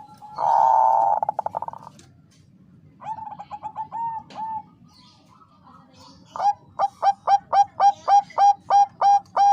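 Zebra dove (Bangkok-type perkutut) cooing. A loud rolling trill comes about half a second in, then a run of short coos around the middle, then a steady series of about a dozen clipped coos, roughly four a second, near the end.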